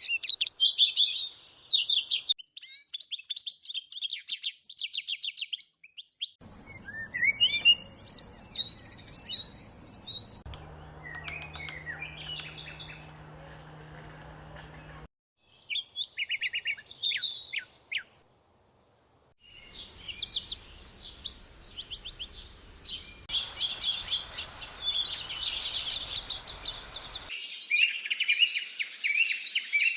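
Small songbirds chirping and singing in quick, high phrases, in several stretches of a few seconds each that start and stop abruptly, as if spliced together.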